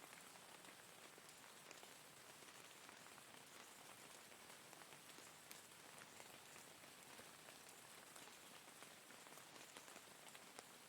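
Faint, steady rain: an even hiss with many separate drops ticking through it.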